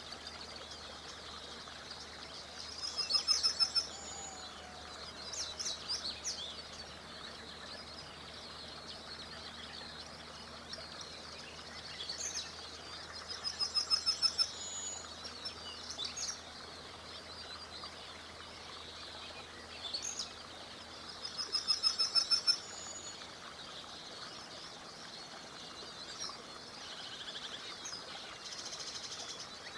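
A songbird sings a loud phrase of rapid repeated notes three times, about every eight to ten seconds, with shorter calls in between. Underneath runs the steady, even rush of a small river.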